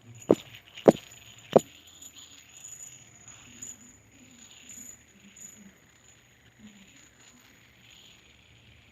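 Plastic fidget spinner flicked, with three sharp clicks in the first two seconds, then spinning with a faint whir that slowly fades away.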